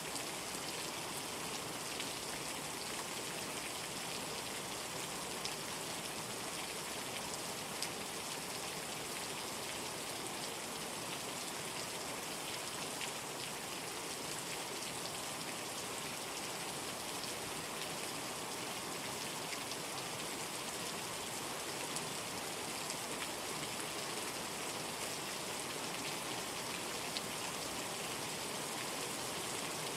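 Steady rain falling, an even hiss with a few louder drop ticks here and there.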